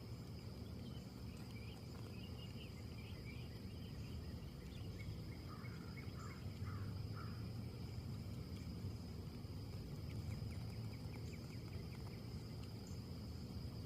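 Wind rushing through trees, with a steady high insect drone and a few bird chirps in the first half.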